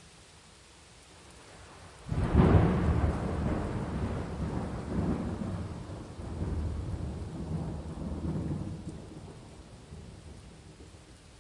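Thunder over steady rain: a loud crack-and-rumble breaks in about two seconds in, rolls on in several swells, and slowly dies away beneath the hiss of the rain.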